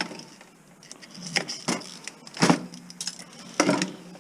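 Small metal parts clinking and rattling as a scrapped electronics unit is handled and taken apart. There are several sharp clinks, the loudest about two and a half seconds in.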